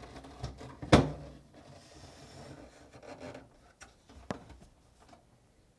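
Refrigerator crisper side plate being fitted into place: quiet rubbing and scraping of the part against its mounting, with a sharp knock about a second in and a lighter one a little past four seconds.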